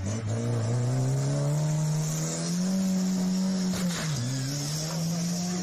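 Lada Niva's engine revving hard under load, its pitch climbing and holding high, dipping briefly about four seconds in and then climbing again.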